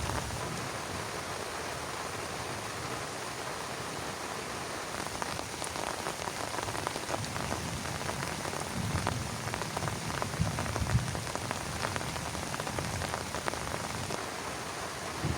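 Heavy rain falling steadily on a plastic tarp shelter, a dense hiss of many small drop impacts.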